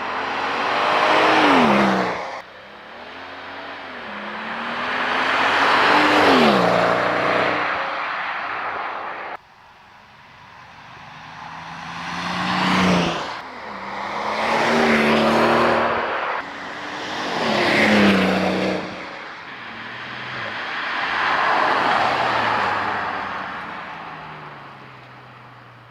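Mercedes-Benz S65 AMG's 6.0-litre twin-turbo V12 heard from outside as the car drives past again and again. Each pass swells up, peaks with the engine note dropping in pitch, and falls away, with abrupt cuts between some passes. Near the end the engine note steps down and fades as the car pulls away.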